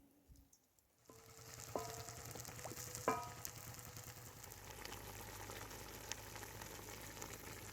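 Food sizzling in a hot pan, starting about a second in, with two ringing metal clinks.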